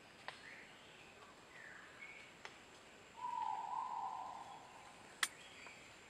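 Quiet tropical forest ambience with faint bird chirps, then one long steady hoot of about a second and a half, sagging slightly at its end. A few sharp clicks, the loudest just after the hoot.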